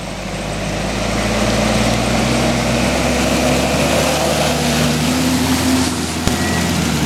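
Off-road SUV's engine revving hard under load as it takes a run at a mud bog. It builds over the first second or so and then holds high, with the wheels churning through mud and water.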